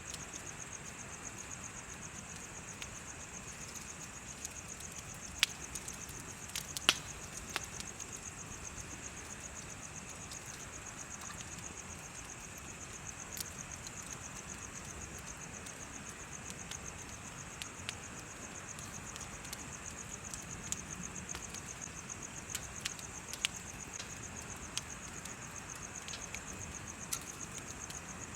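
Insects chirping in a steady, high, fast-pulsing drone, over a bonfire crackling with scattered sharp pops, the loudest about five and seven seconds in.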